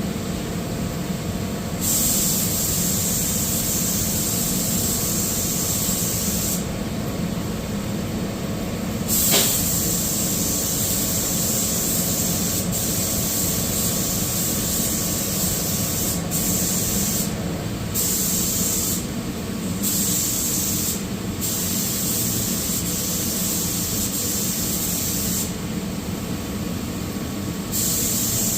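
Compressed-air paint spray gun hissing in repeated passes, the air cutting in and out as the trigger is pulled and released, over a steady low hum.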